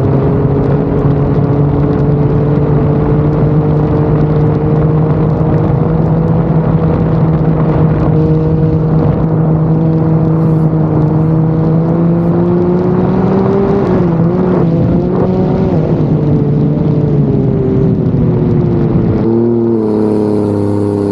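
Turbocharged Ford 4.0 L six-cylinder engine of a sterndrive race boat running hard under way, its pitch climbing slowly, wavering briefly about two-thirds through, then easing off, with an abrupt change in the sound near the end.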